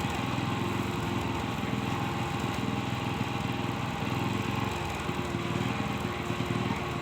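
Small engine running steadily with a rapid, even putter.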